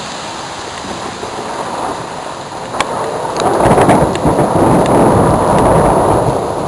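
Thunder during a severe thunderstorm: a sharp crack a little under three seconds in, then a loud rolling rumble lasting about three seconds, over a steady hiss.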